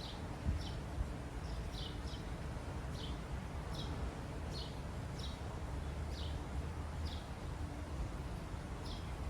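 Birdsong: a small bird repeating short, high, downward-slurred chirps about every half second, over a low steady background rumble.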